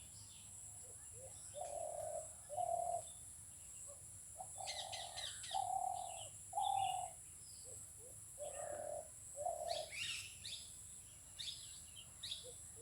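Birds calling: a dove cooing in short, even low notes, two or three at a time, with bursts of quick high chirps from small birds, likely the weavers, between and over them. A steady high hiss runs underneath.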